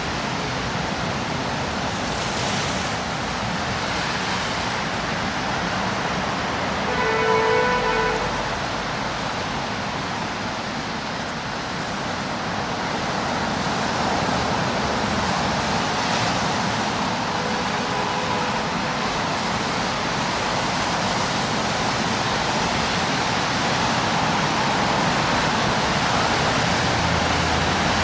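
Steady traffic noise of a busy city street, with a short pitched tone about seven seconds in and a fainter one a little after the middle.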